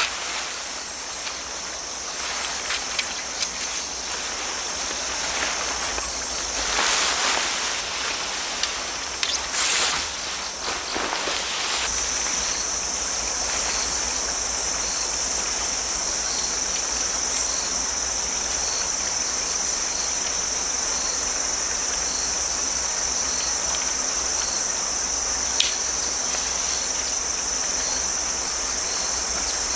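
Autumn grass insects (crickets) trilling steadily in a high, unbroken chorus over a flowing stream; the insect trill grows louder about twelve seconds in. A few brief rustling knocks come in the first half.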